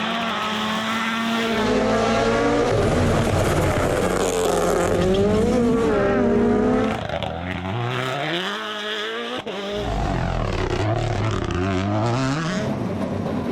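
Rally car's turbocharged four-cylinder engine revving hard, its pitch climbing and dropping again and again with gear changes and lifts. The engine eases off about seven seconds in, and after a short click it picks up again.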